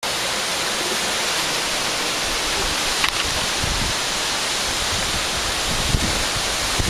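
Pine Canyon waterfall pouring heavily, swollen by a big rain: a steady, even rush of falling water. A few low buffets of wind on the microphone come in the second half.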